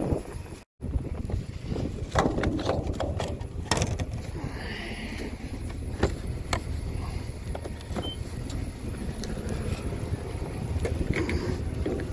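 A vehicle engine running steadily, with a cluster of sharp clicks and knocks about two to four seconds in.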